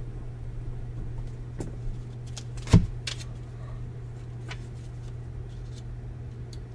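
Steady low hum with a few light clicks and one sharp knock a little under three seconds in, typical of objects being handled on a table.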